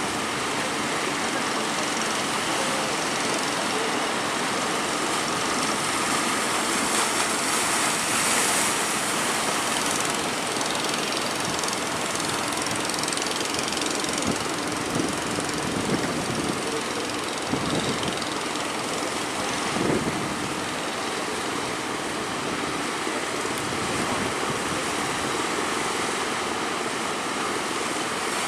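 Breaking surf and wind at the sea's edge: a steady rushing noise that swells about eight seconds in, with a few heavier surges later on.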